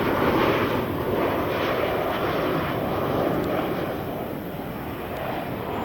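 Jet engines of a Ryanair Boeing 737 airliner descending on approach to land: a steady rush of engine noise that eases off a little in the second half.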